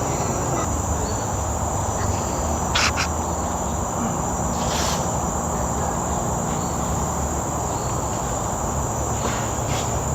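Steady, high-pitched drone of insects in tropical forest, over a low steady rumble, with two brief sharper noises about three and five seconds in.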